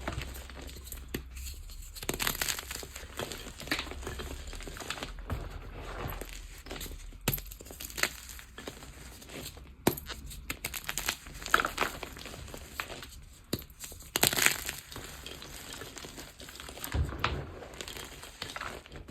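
Blocks of gym chalk crushed and crumbled by hand, in irregular crunches and crackles with a powdery crumble between them; a few louder crunches come past the middle.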